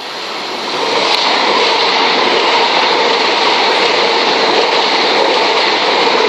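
Southeastern Class 375 Electrostar electric multiple unit running past at close range: a loud, steady rush of wheels on rail that builds over the first second, with a faint steady hum beneath it.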